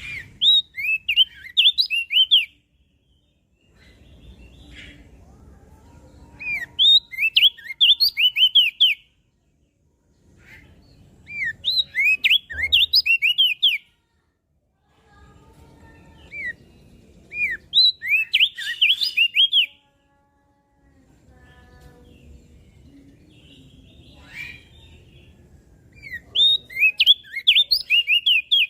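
Opior jambul (crested dark-eye) songbird singing: about five bursts of rapid, high chirping notes, each burst lasting two to three seconds, with pauses of a few seconds between them.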